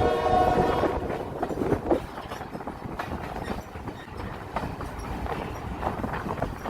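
Alco FPA locomotive horn sounding and cutting off about a second in. After it comes the steady rumble of the moving train, with wheels clicking over the rail joints.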